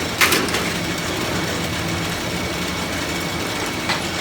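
Workshop machinery running steadily, with a sharp knock about a quarter second in and a lighter click near the end.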